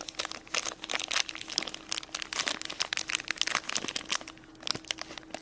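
Packaging crinkling and crackling in irregular bursts as a small toy is unwrapped by hand.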